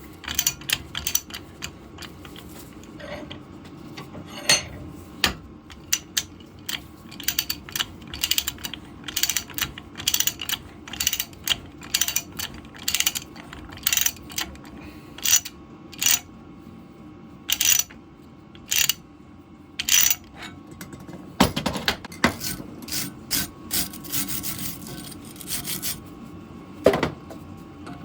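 Ratcheting die stock cutting a thread on a water pipe: irregular runs of sharp ratchet clicks as the handle is worked back and forth, with a couple of duller knocks in the last third.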